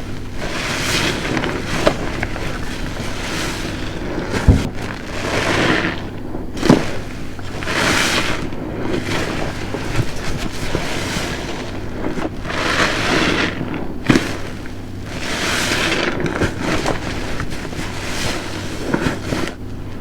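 A large car-wash sponge soaked with dishwashing liquid being squeezed over and over: wet, sudsy squelching that swells every couple of seconds, with a couple of sharp thuds.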